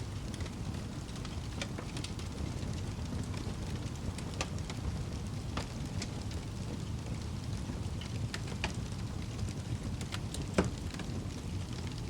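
Log fire burning in a fireplace: a steady low rumble of flames with scattered crackles and pops from the burning wood, the loudest pop about ten and a half seconds in.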